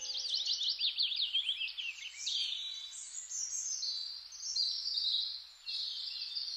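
A small songbird singing: a fast run of high chirps sweeping downward for the first two seconds or so, then a varied warbling song.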